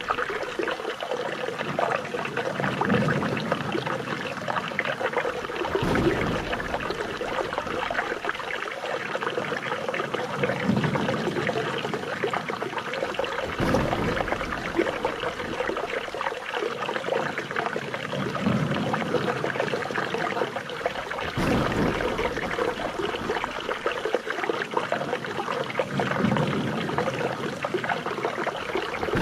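Running water babbling and splashing steadily, with a low surge that comes back about every eight seconds.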